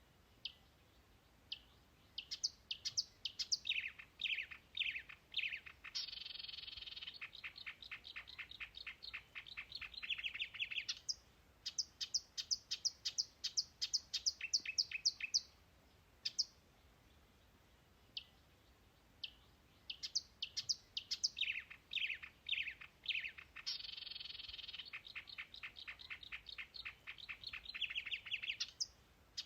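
A songbird singing long phrases of rapid, repeated short high chirps with brief pauses between phrases. The same phrase sequence comes round again about two-thirds of the way in.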